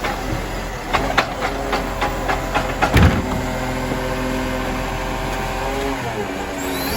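Iveco Stralis garbage truck's diesel engine running steadily, with a run of knocks and clatter and one heavy thump about three seconds in. The engine's pitch dips briefly near the end.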